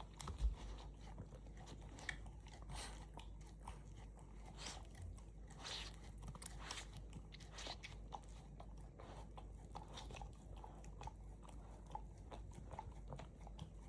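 Golden retriever puppy licking and chewing at a LickiMat: irregular mouth sounds with many small clicks and crunches, and one louder thump about half a second in.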